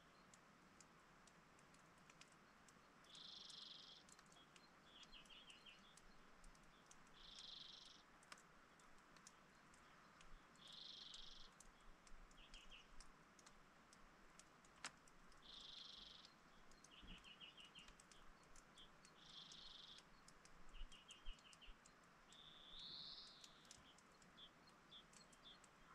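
A small songbird singing faintly, repeating the same phrase about every four seconds: a short dense note followed by a quick run of clipped notes.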